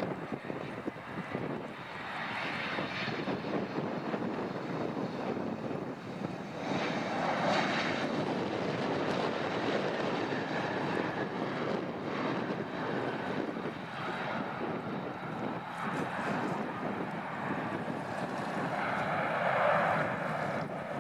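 An airliner's engines running steadily, a continuous rushing noise that swells a little about seven seconds in and again near the end.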